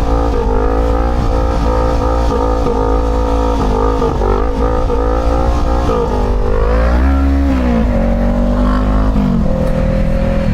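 Motorcycle engine running while riding in traffic, its pitch dipping and then climbing about two-thirds of the way through and stepping down near the end as the revs change, over a steady low rumble.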